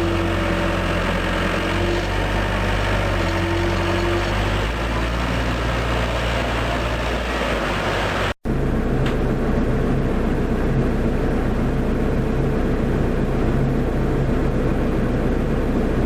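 Tractor engine running steadily. About eight seconds in the sound cuts out for an instant and returns with a different steady engine tone.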